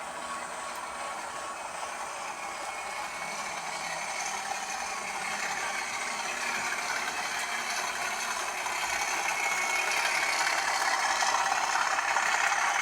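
British Rail Class 37 diesel locomotive's English Electric V12 engine running, growing steadily louder.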